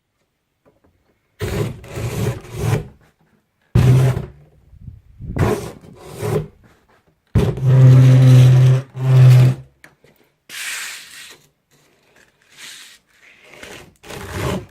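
Wooden door's bottom edge scraping and rubbing as the door is swung back and forth, about six strokes, some with a low droning groan. The door rubs at the bottom.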